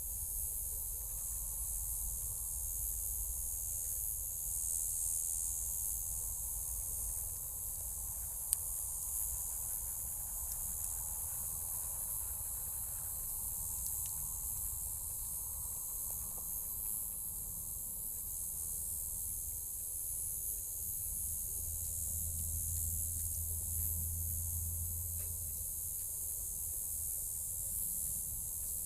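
Small wood fire burning in a tabletop fire pit: a steady hiss with one sharp pop about eight seconds in, over a low outdoor rumble.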